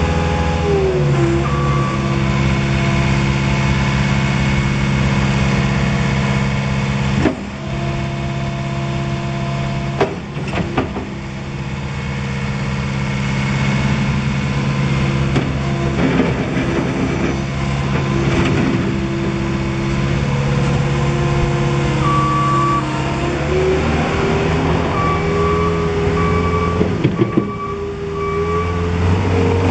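Volvo MCT125 tracked skid steer loader's diesel engine running, its speed stepping up and down several times as the machine is worked, with a few sharp clanks. Near the end a backup alarm beeps in short repeated tones.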